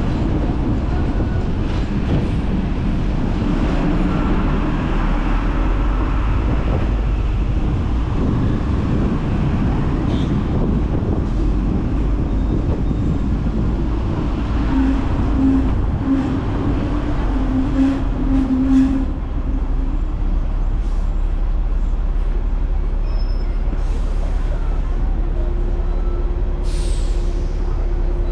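Hong Kong double-decker electric tram running along its street rails: a steady low rumble with scattered clicks and knocks, a short pulsing tone about halfway, and a steady hum coming in near the end.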